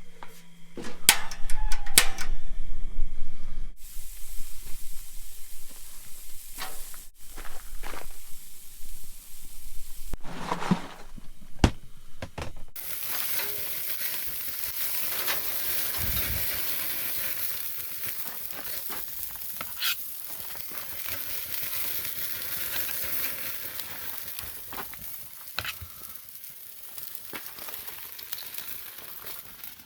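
Burger patties sizzling as they fry, a steady hiss that starts about thirteen seconds in and carries on. Before that, a few scattered clicks and knocks.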